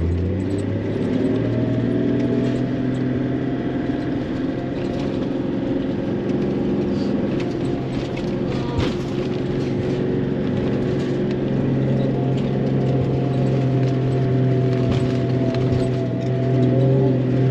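Four-wheel-drive vehicle's engine pulling hard at steady revs in low range while climbing a steep sand slope, heard from inside the cabin. The revs climb in the first second, hold, and rise again near the end.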